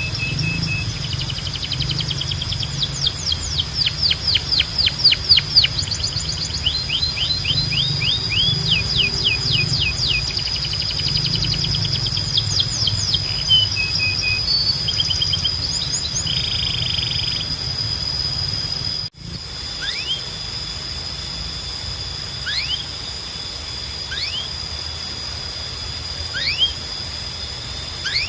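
Canary singing: fast trills of repeated short notes, with a long steady high note running underneath. About 19 seconds in the recording cuts, and the song gives way to single rising chirps a second or two apart.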